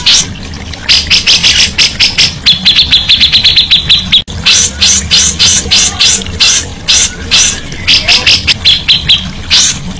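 Recorded songbird song for bird training: loud, rapid, sharp high notes repeated about four to five times a second, starting about a second in, broken twice by a fast trill held at one pitch.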